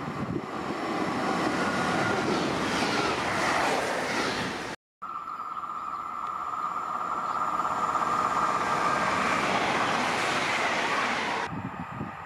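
Trains passing through a station: a rising rush of wheels on rail as a train approaches, then an abrupt cut. Another train follows, passing with a steady high-pitched whine over the rushing noise, which falls away near the end.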